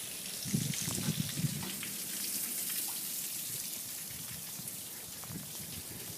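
Rain falling in a steady hiss with scattered drop ticks, while storm wind gusts buffet the microphone with low rumbles, strongest around a second in.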